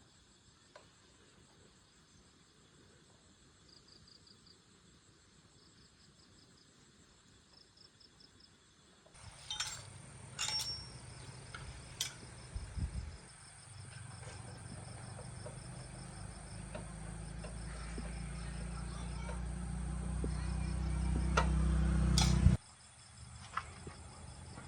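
Crickets chirping in a steady pulsing rhythm. About nine seconds in, a low hum starts with a few clicks, grows steadily louder, then cuts off suddenly near the end.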